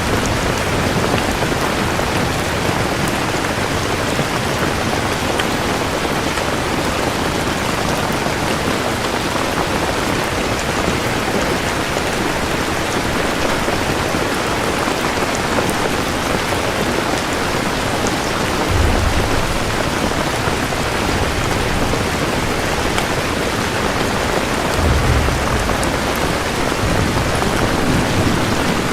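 Steady heavy rain falling, with low rolls of thunder rumbling about 19 seconds in and again around 25 and 27 seconds in.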